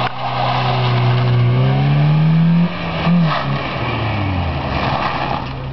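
A small hatchback's engine accelerating hard, rising steadily in pitch for about two and a half seconds, then cutting off abruptly. A short blip follows, and the engine note falls away as the car slows.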